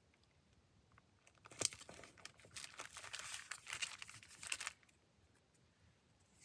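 Paper rustling and crinkling as it is handled, in an irregular burst that starts about a second and a half in and stops after about three seconds.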